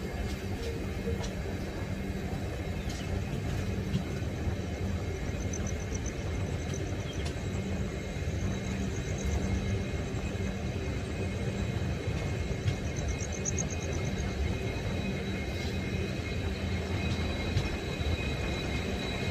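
Passenger train running on the rails, a steady low rumble heard from the coach's open doorway. A faint high-pitched wheel squeal creeps in near the end.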